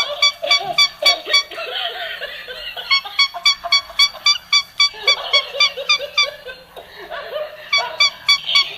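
Rapid, laugh-like bird calls: runs of short, high notes at about six a second, with brief pauses between the runs.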